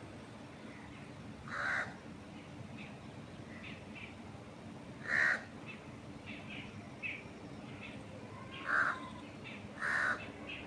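Birds calling outdoors: one bird gives four loud, short calls, the last two about a second apart. Smaller chirps from other birds come in between, over a steady hiss of wind in trees.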